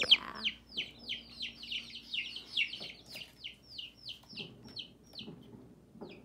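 Baby chicks peeping: a quick run of short, high, falling peeps, about four a second, that fades away and stops about five seconds in.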